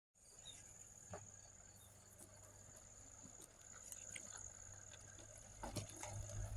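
Faint, steady high-pitched trill of insects such as crickets, holding one unbroken tone, with a few soft clicks and a low rumble building near the end.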